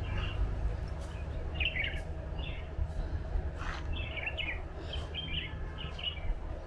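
Wild birds chirping in short bursts of quick notes, several times over, above a steady low background rumble.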